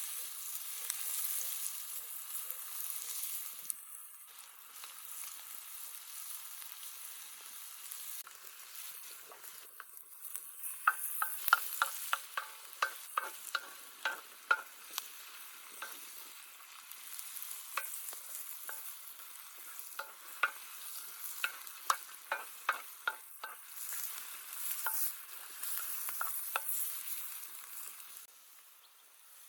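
Food sizzling in hot oil in a pan while a utensil stirs it, knocking against the pan. From about ten seconds in there is a long run of sharp clicks, a few a second.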